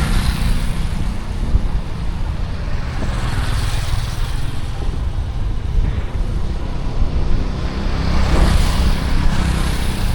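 City street traffic heard while riding a bicycle: motor vehicles swell past three times, near the start, about three seconds in and near the end, over a steady low rumble.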